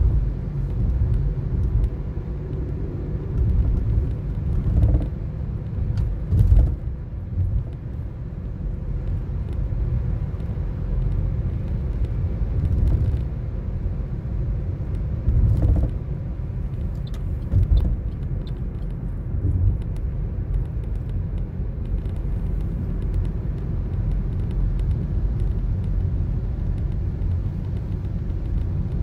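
Toyota Corolla driving, heard from inside the cabin: a steady low rumble of engine and road noise, with a few brief knocks, the strongest about six seconds in.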